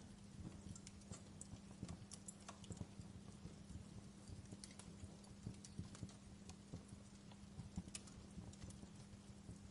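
Campfire crackling: burning wood giving irregular sharp pops and snaps, several a second, over a soft hiss.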